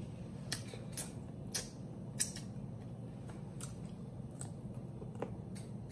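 Close-miked eating: chewing with wet mouth smacks and clicks, about eight of them at uneven intervals.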